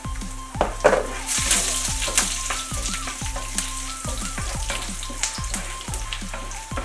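Dried red chillies, ginger and timur (Sichuan pepper) sizzling in hot oil in a non-stick frying pan, with a wooden spoon stirring and tapping against the pan. The sizzle is loudest about a second and a half in. Soft background music with a steady beat plays underneath.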